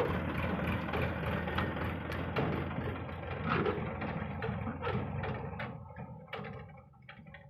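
Diesel engine of heavy earthmoving machinery running at a steady idle, fading away about six seconds in, with a series of sharp clicks or knocks over the second half.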